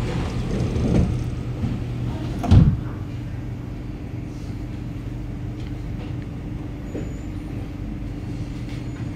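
Interior of a Kawasaki Nippon Sharyo C751B metro train car standing with its doors shut: a steady low hum from the train's onboard equipment, with a single loud thump about two and a half seconds in.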